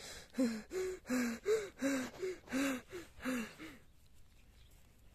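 A person's voice making a quick run of about nine short, breathy, pitched sounds over some three and a half seconds, then stopping.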